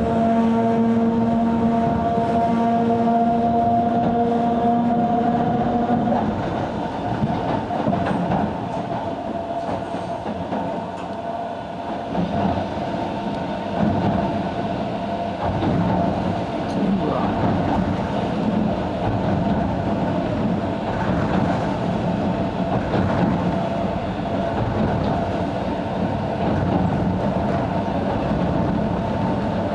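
Narrow-gauge 270-series electric train running: for the first six seconds or so a whine of several steady tones sounds over the running noise, then cuts off suddenly, leaving the rumble and clatter of the wheels on the track.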